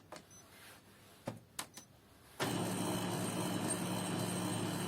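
A few short clicks, then about halfway through the Kyocera ECOSYS M2030dn laser printer's drive mechanism starts up and runs steadily, with a low hum and a thin, high, steady squeal: the small squeak the machine has been brought in for.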